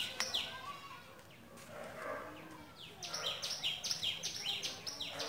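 Small birds chirping in a quick run of short, high, falling chirps, which pause for about two seconds in the middle and then start again.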